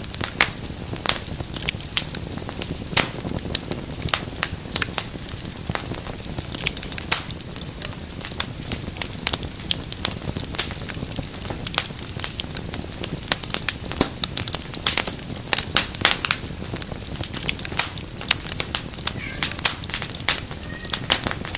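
Wood fire crackling in a fireplace: dense, irregular sharp pops and snaps over a low, steady rumble of burning.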